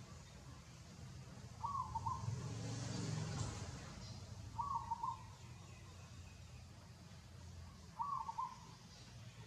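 A bird calling, a short cooing or hooting call of about half a second, repeated three times about three seconds apart. A steady low rumble runs underneath and swells briefly about three seconds in.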